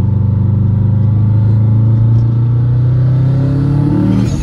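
Big-turbo Subaru WRX's turbocharged flat-four engine pulling under acceleration, its revs climbing steadily and then faster. Near the end comes a short burst of hiss as the revs drop.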